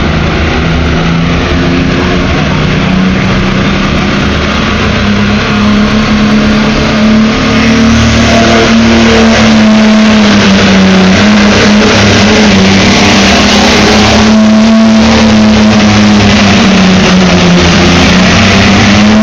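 Tractor engine running hard under a heavy pulling load. Its pitch climbs over the first several seconds and then holds high and loud, sags briefly near the end and picks up again.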